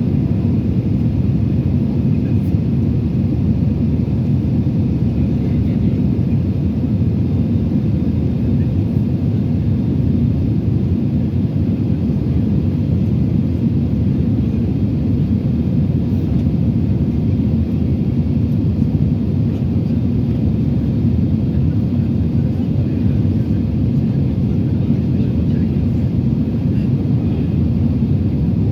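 Steady, loud low rumble of engine and airflow noise inside the cabin of an Airbus A320-216, whose engines are CFM56-5Bs.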